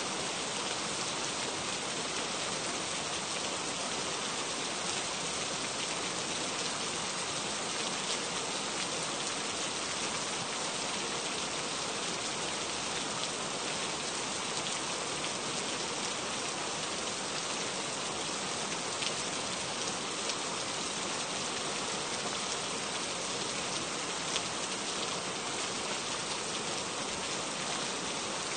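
Steady rain falling, an even hiss with occasional sharper drop taps.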